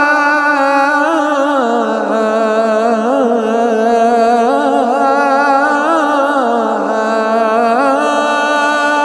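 A muezzin chanting the adhan (Islamic call to prayer), holding one long ornamented vowel. The pitch wavers up and down through the melisma and steps lower about a second and a half in.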